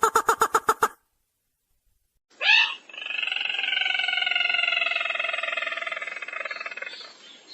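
Recorded lure call of the sintar merah bird: a quick run of about nine sharp notes in the first second, then after a pause a long rattling trill of about five seconds that slowly falls in pitch and fades out near the end.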